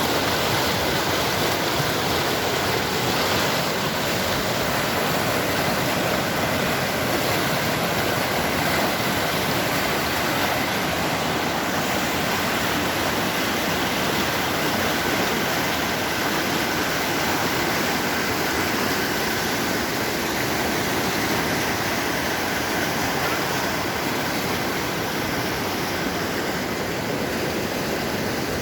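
Steady, loud rush of a fast-flowing stream.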